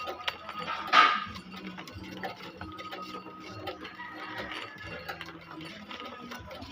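Irregular mechanical clicking and clinking of small metal parts or tools being handled, with one louder knock about a second in.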